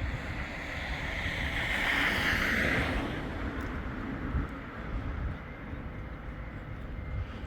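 A tram running past, its sound swelling to a peak about two to three seconds in and then fading, with wind buffeting the microphone.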